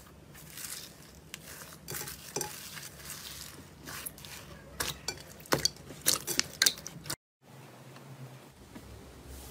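Slime being squeezed and worked by hand, giving a string of sharp sticky clicks and crackles that are loudest a little past the middle. The sound cuts out completely for a moment about seven seconds in, then quieter handling resumes.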